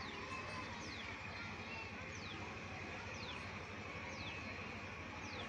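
A bird calling with a short, high, falling chirp repeated about once a second over a steady background hiss.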